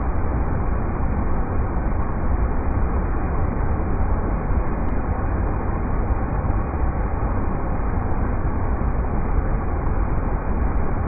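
River rapids: a steady, even rush of water, heaviest in the low end, with no change in level.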